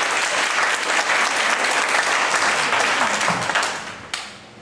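Audience applauding with dense clapping that dies away about four seconds in.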